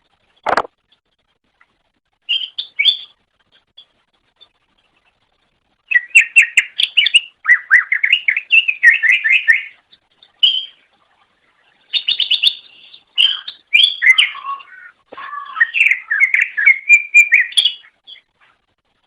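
Cucak ijo (green leafbird) singing: a brief phrase, then long runs of rapid, varied chattering and whistled notes with short pauses between them.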